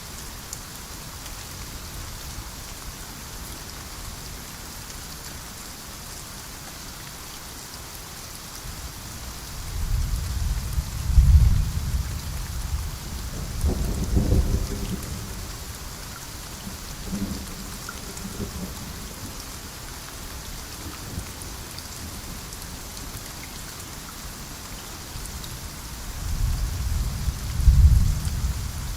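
Steady rain falling in a rainforest, with low rolling thunder rumbling up about ten seconds in, again a few seconds later, and once more near the end.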